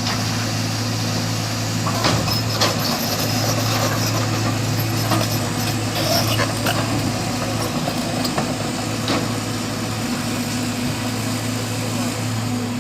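Truck engine idling steadily, with a few sharp knocks and clatters over it about two, six and nine seconds in.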